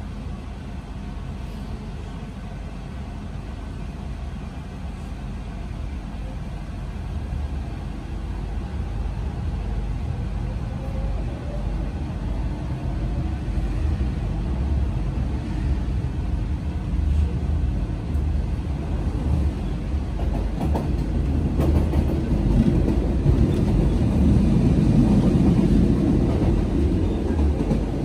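RER A commuter train heard from inside the carriage, pulling out of a station and gathering speed: a steady low rumble that grows louder, with a faint rising whine partway through.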